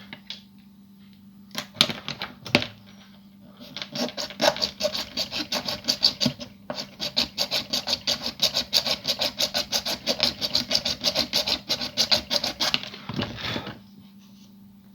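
Quick back-and-forth scraping strokes of a hand tool on a small model part, about five a second, in two runs with a short break between, after a couple of sharp clicks.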